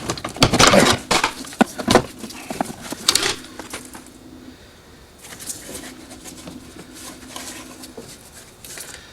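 Metal clanking and rattling as a car's brake booster is worked free and pulled off the firewall: a quick flurry of knocks and clatters in the first few seconds, then a few lighter knocks.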